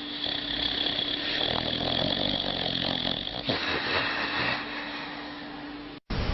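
A dog snoring loudly with a rough, buzzing rasp. It cuts off abruptly about six seconds in, and a different hissing noise follows.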